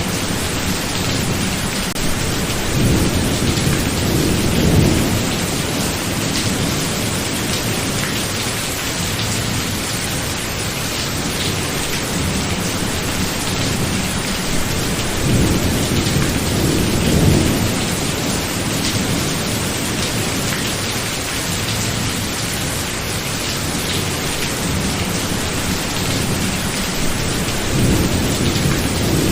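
Steady heavy rain with thunder rumbling low three times: about three seconds in, around the middle, and again near the end.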